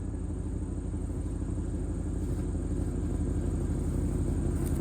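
1992 Chevrolet Caprice wagon's fuel-injected 350 V8 running steadily, getting gradually louder.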